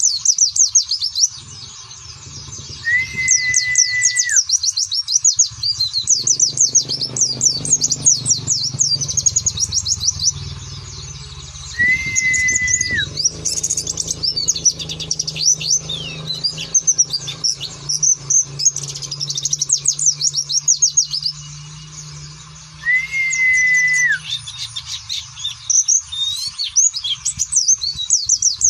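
Pleci (white-eye) twittering in a fast, unbroken high chatter, the ngeriwik song. Three long level whistles come about ten seconds apart, and a low steady hum runs underneath.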